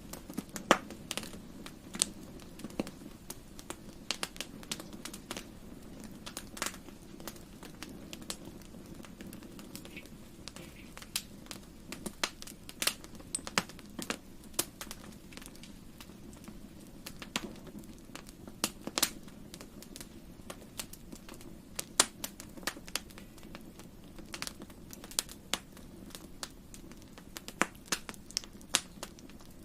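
Wood fire crackling in a fireplace: irregular sharp pops and snaps, a few a second, over a steady low rush from the flames.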